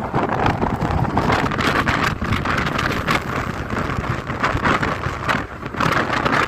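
Wind buffeting the microphone over the steady rumble of a moving vehicle, a rushing noise that rises and falls in gusts.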